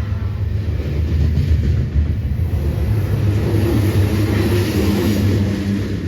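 Freight train rolling past: a steady, loud low rumble from the locomotives and cars that swells in the middle and eases off near the end.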